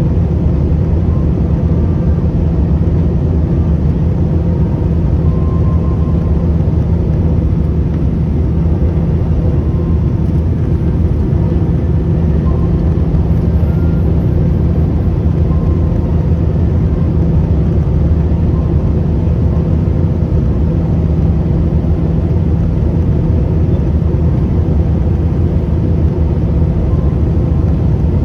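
Steady, unbroken cabin noise of an airliner with its engines running: a deep, even rumble with a constant low drone and no changes in pitch or level.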